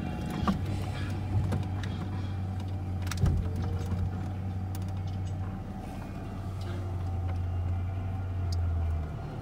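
Vehicle engine idling: a steady low drone that cuts off suddenly about nine seconds in, with a few light knocks, one louder about three seconds in.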